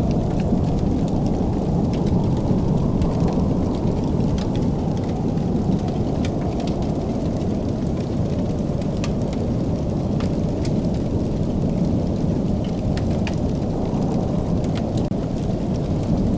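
Wood fire crackling, with scattered sharp pops and ticks over a steady low rumble.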